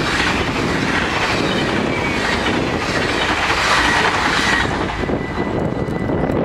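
NS double-deck electric train passing over a level crossing: a loud rush of wheels on rails and air, with clickety-clack, that fades about five seconds in. The crossing's warning bells ring steadily.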